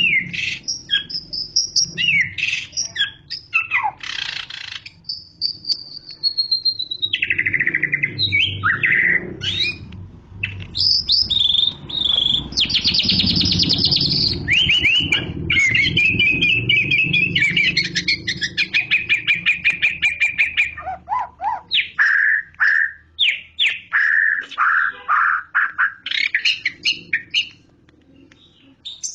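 White-rumped shama singing in full, continuous song: loud, varied whistled phrases, sliding notes and fast rattling trills, over a faint low hum. The song dies away in the last second or so.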